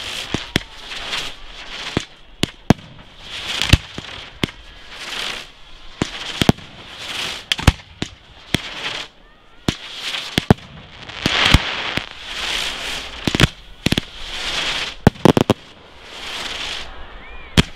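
Aerial fireworks display: many sharp, loud bangs from shells, some in quick clusters, mixed with repeated hissing stretches about a second long.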